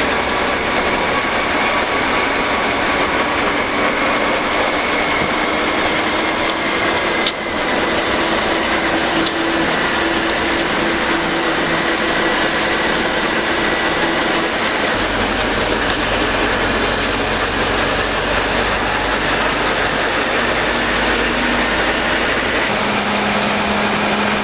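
A moving bus's engine and road noise heard from the driver's cabin, a steady loud rumble and hiss with a brief dip about seven seconds in.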